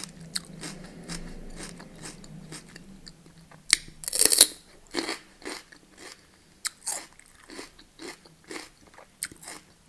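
A person biting and chewing crunchy food: a string of crisp crunches at irregular intervals, the loudest about four seconds in.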